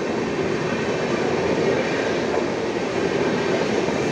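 Sleeper coaches of an Indian Railways express train rolling past close by, a steady rumble and rush of wheels on the rails.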